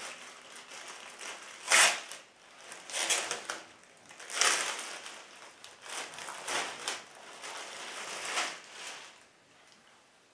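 Packaging crinkling and rustling in a series of bursts as a cap is pulled out of it by hand. The sharpest crackle comes about two seconds in.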